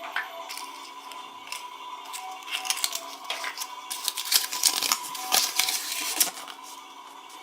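Crinkling and crackling of a toy's packaging wrapper being handled and torn open, thickest from about two seconds in to about six seconds in.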